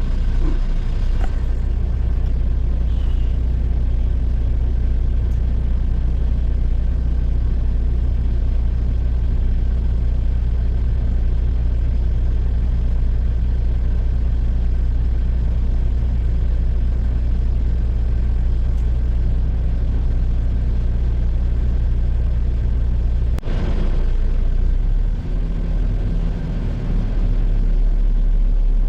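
Diesel engine of a Western Star dump truck running steadily, with a loud low drone. A single sharp click sounds about 23 seconds in.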